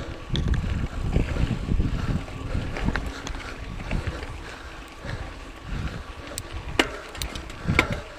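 Mountain bike rolling over a rocky dirt trail: wind buffeting the microphone and a low tyre rumble, stronger in the first half, with scattered sharp clicks and rattles from the bike, the loudest near the end.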